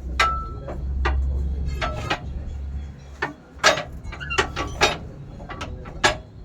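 A dozen or so sharp metallic clinks and knocks at uneven intervals, as of tools and truck clutch parts being handled, over a low rumble that fades about three seconds in.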